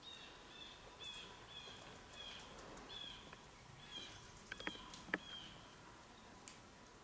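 A small bird calling repeatedly, short high chirps about twice a second that stop about five and a half seconds in. A few sharp clicks or snaps come between about four and a half and five seconds in.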